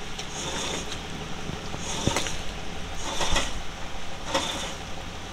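A vehicle engine idling steadily under a wash of rain and wind noise. A soft swish comes about once a second, and there is one sharp click about two seconds in.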